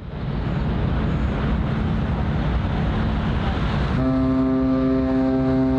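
A large ship's horn starts a long, steady, low blast about four seconds in, over a steady background of wind-like noise and low rumble.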